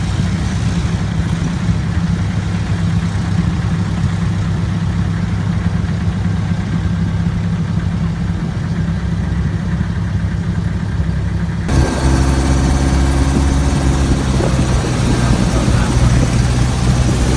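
Motorboat engine running steadily at a constant pitch; about twelve seconds in it cuts abruptly to a slightly different, deeper engine note.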